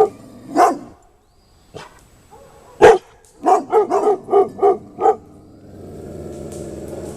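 Dogs alarm-barking at an unfamiliar object: a few single barks, then a quick run of about seven barks. A low, steady rumble follows near the end.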